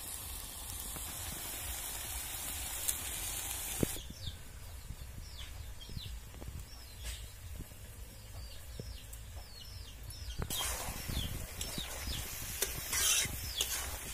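Chicken and greens sizzling steadily in a hot iron wok for about four seconds. After a sudden drop in level, birds chirp over and over in short falling calls, then from about ten seconds the sizzling comes back with a metal spatula scraping and stirring in the wok.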